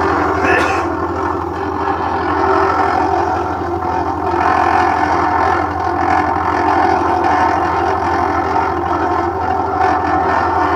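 LG top-load washing machine running with a loud, steady mechanical noise over a constant low hum: the abnormal noise the machine is faulty for.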